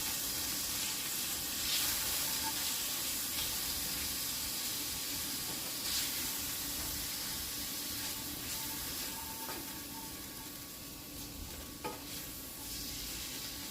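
Ground turkey burgers frying in a hot pan: a steady sizzle with sharp pops about 2, 6 and 12 seconds in.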